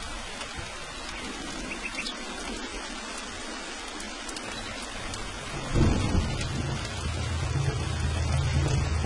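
Steady rain falling, with a clap of thunder a little past halfway that keeps rumbling low and rolling afterwards.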